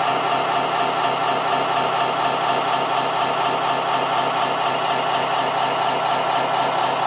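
Steady engine-like running sound from a remote-control construction model, held at one even, idle-like pitch with a constant hiss over it.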